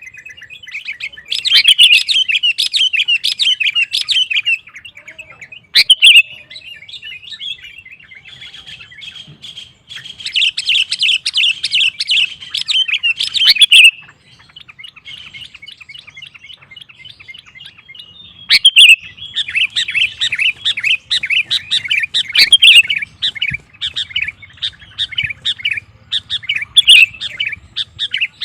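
Sooty-headed bulbul (kutilang) singing vigorously: bursts of rapid, chattering song phrases lasting a few seconds each, with short quieter gaps between them.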